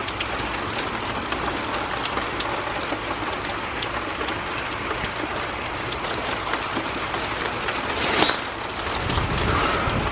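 Steady rain falling during a thunderstorm, with many single drops ticking on nearby surfaces. A brief louder whoosh comes about eight seconds in, and a low rumble builds near the end.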